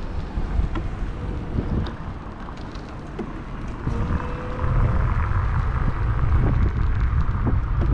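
Wind buffeting the microphone of a GoPro on a moving electric bike, a steady low rumble with scattered clicks and knocks from the ride. The rumble eases briefly a couple of seconds in and picks up again after about four seconds, when a faint thin whine is heard.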